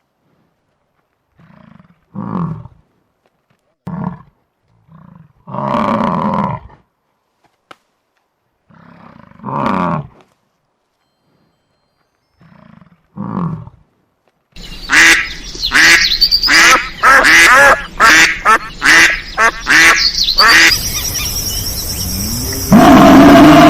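Animal calls: single drawn-out calls, each about a second long, separated by silent pauses. About fifteen seconds in, after a sudden change, a louder stretch of rapid repeated calls follows, about two to three a second, over a steady background noise.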